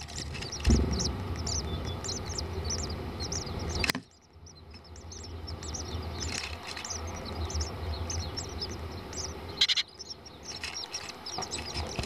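Small birds chirping in rapid, short, high peeps over a low steady rumble. There is a thump about a second in and another near the end, and the sound drops away briefly about four seconds in.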